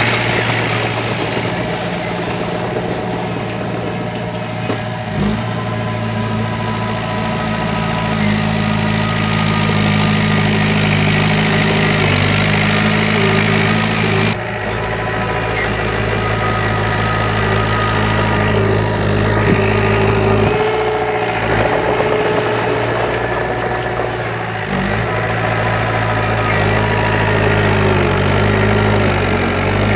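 Diesel engine of heavy earthmoving machinery running steadily at low revs, its pitch stepping slightly a few times. There is a brief click about halfway through.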